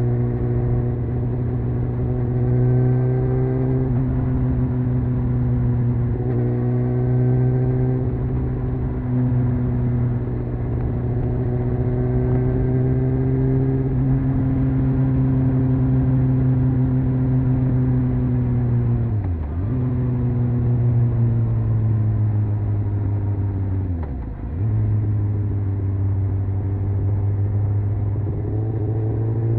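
Honda CBR600F's inline-four engine and exhaust, heard from the rider's seat, running at fairly steady revs while riding. Twice in the second half the engine note dips sharply and recovers within a moment.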